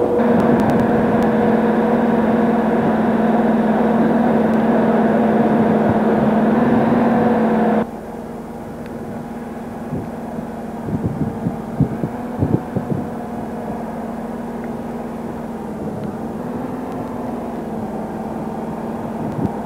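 Aircraft engine noise at an air display: a loud, steady engine sound with a constant tone that cuts off abruptly about eight seconds in, followed by quieter engine noise with a few short knocks.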